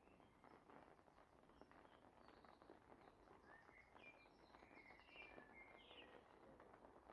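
Faint patter of light rain, with a bird chirping a run of short notes in the middle.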